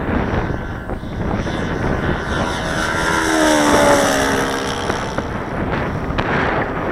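Saito 180 four-stroke model engine swinging an 18x6 propeller on an RC Mew Gull, flying past: the engine note swells and drops in pitch as it passes, about midway through. Wind noise on the microphone runs underneath.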